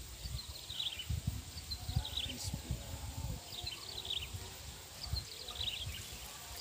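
A bird repeatedly calling a short, high, falling trill about every second or so, over uneven low-pitched background noise.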